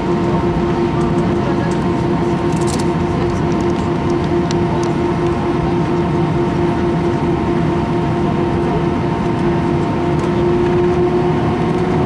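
Airbus A319 cabin noise while taxiing: a steady rush of engine and air noise with a steady hum tone that rises slightly in pitch near the end.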